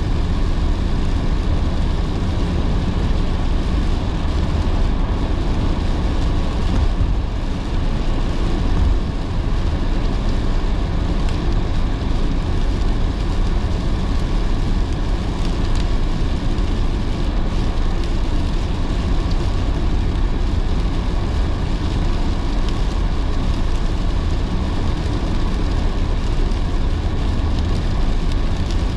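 Car driving on a rain-soaked road in heavy rain: a steady low road rumble with the hiss of tyres and rain, with a brief small dip in level about seven seconds in.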